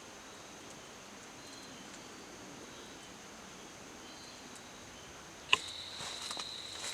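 Insects droning steadily in a high, thin tone. About five and a half seconds in comes a single sharp click, then rustling and a second, slightly lower insect tone.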